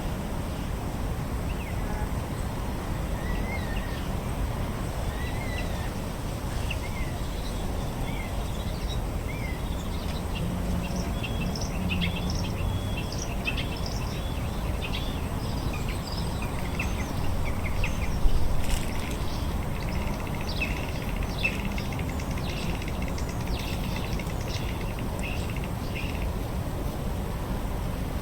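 Birds calling and chirping over a steady low background rumble: first a run of short rising-and-falling calls about once a second, then busier overlapping chirps from several birds. A brief louder noise a little past halfway.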